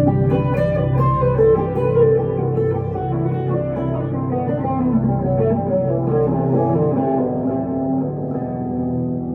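Electric guitar, a 1962 Gibson Les Paul Custom through a tube amp with delay and reverb, playing a melodic lead phrase of many picked notes over steady, held low tones.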